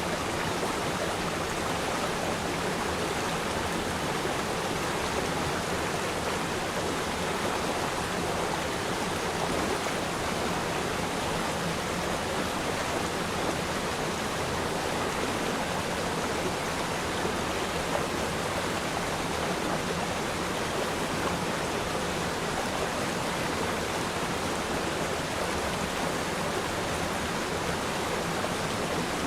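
Steady rushing of a flowing river stream, an even wash of water noise with no pauses or distinct splashes.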